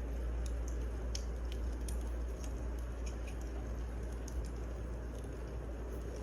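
Wood fire crackling: scattered, irregular sharp pops and snaps over a steady low rumble of burning logs.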